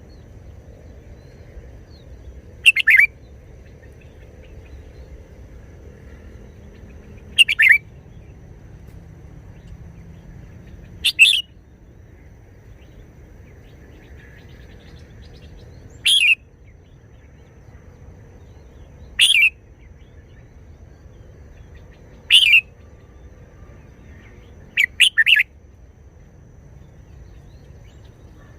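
Red-whiskered bulbul singing short, brisk song phrases: seven brief bursts a few seconds apart, each under a second long.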